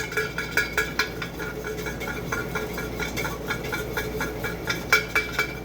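A metal spoon stirring honey into a cup of tea, clinking rhythmically against the inside of the cup at about four strokes a second. The clinks are softer through the middle and grow sharper again near the end.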